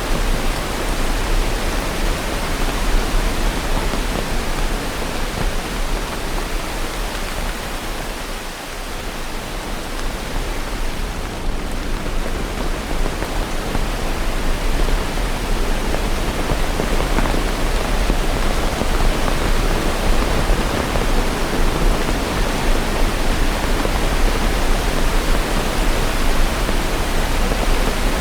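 Steady rain falling, an even hiss with no thunder, easing slightly about eight seconds in and then filling back out.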